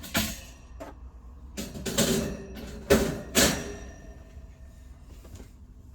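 A series of sharp knocks and clanks from objects being handled, about five or six in all, bunched together in the middle, some with a short metallic ring.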